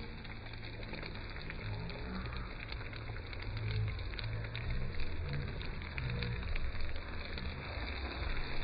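Crackling and hissing from cooking over an open fire: a steady hiss dotted with many small pops, with uneven low rumbles underneath.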